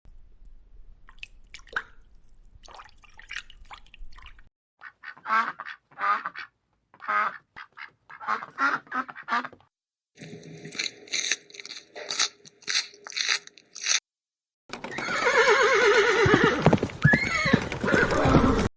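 A string of separate animal-call recordings. Faint clicks come first, then a run of duck quacks about five seconds in, then a fast, evenly repeating call, and last a louder call with falling sweeps in pitch.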